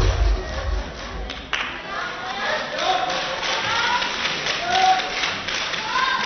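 Spectators in a hall: arena music with a heavy beat fades out in the first second, then scattered voices call out in short rising-and-falling shouts over crowd noise and some clapping.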